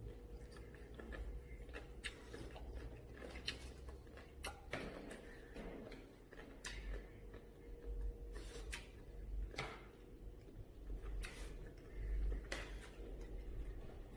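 Scattered light clicks and taps of a spoon against a dish while eating omelet rice, with low handling thumps and a faint steady hum underneath.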